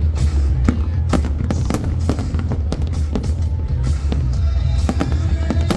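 Fireworks bursting in quick succession, many sharp bangs and crackles, with music playing underneath.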